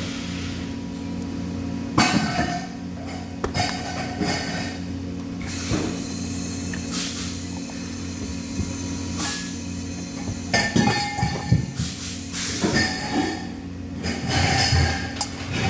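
Irregular clinks and knocks of metal being handled over a steady hum, with the knocks bunching about two seconds in and again in the last few seconds.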